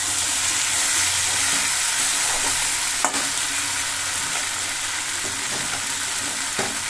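Potatoes, peas and freshly added cabbage frying with a steady sizzle in a wok, with a couple of sharp knocks from the metal spatula against the pan, about three seconds in and near the end.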